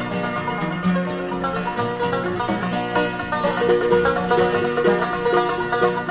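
Bluegrass band playing an instrumental break on banjo, guitars, mandolin and string bass, with no singing.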